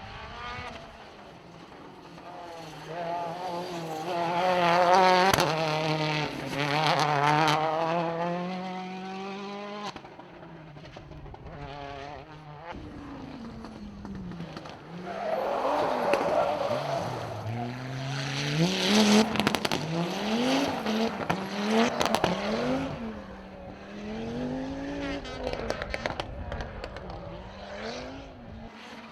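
Rally cars running a shakedown stage at speed: engines revving hard, the note climbing and dropping repeatedly through gear changes and lifts. A first car passes early on, then a second stretch of rapid rev swings with sharp cracks near the loudest point.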